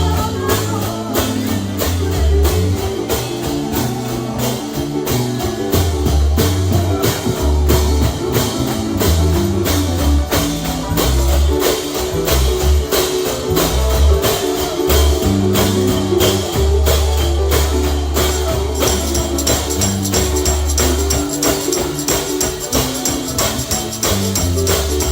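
Gospel band playing an upbeat number, with a tambourine struck on a quick steady beat over deep sustained instrument notes.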